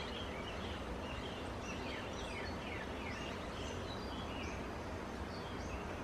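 Rainforest birds calling: many short, falling whistled notes, several overlapping, over a steady low background hiss.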